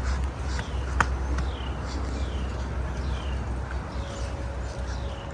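Wind buffeting the microphone in a low rumble, with a bird repeating a high, falling chirp about twice a second. A single sharp click comes about a second in.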